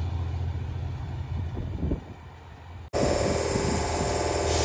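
Class 37 diesel locomotive's English Electric engine running with a steady low hum that fades away. About three seconds in, an abrupt cut to an electric multiple unit passing at speed, with wheel and rail noise.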